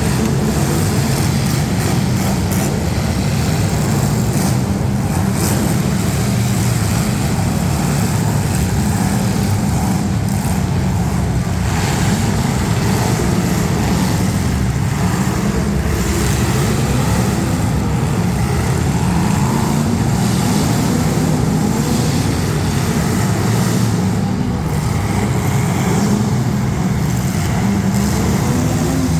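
Demolition derby street stock cars' engines running and revving together, loud and continuous.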